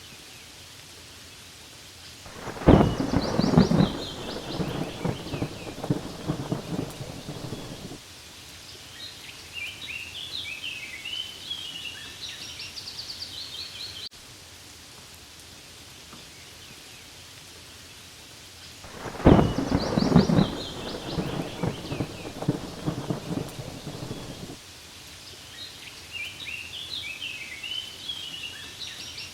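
Steady rain with two long rolls of thunder, one about three seconds in and one about nineteen seconds in, each starting suddenly and rumbling for around five seconds. Birds chirp high over the rain during and after each roll, and the same passage of thunder and birdsong comes round again about sixteen seconds later, as in a repeating loop.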